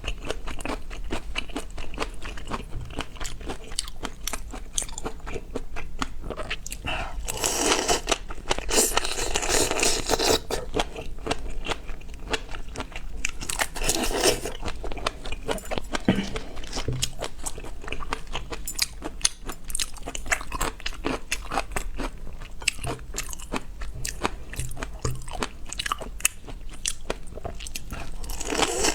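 Close-up eating sounds: seafood being bitten, crunched and chewed in a dense run of crisp crunches and smacks. There are louder stretches about a third of the way in and again around halfway.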